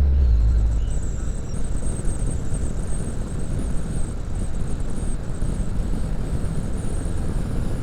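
Motorcycle riding at speed: steady wind and road rush over the microphone, heaviest at the start and easing within about a second.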